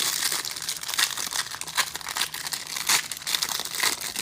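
Plastic and foil trading card pack wrappers crinkling and tearing as packs are handled and ripped open, an irregular run of crackles and crinkles.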